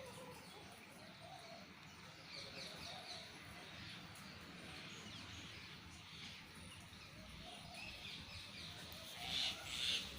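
Small birds chirping in quick high twittering runs over a faint background, louder near the end.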